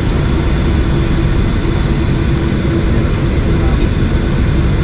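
Steady cabin noise of a Boeing 737-800 taxiing, its CFM56-7B engines running at idle thrust, with a constant low hum.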